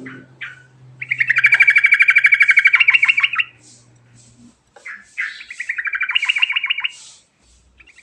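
A yellow-vented bulbul (trucukan) singing a rolling song. A few short notes lead into two long, rapid rattling trills, each lasting about two seconds.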